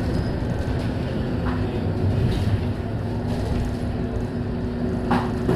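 Scania K230UB (Euro V) city bus running, a steady engine drone and road rumble, with a brief click about a second and a half in and a sharper rattle near the end.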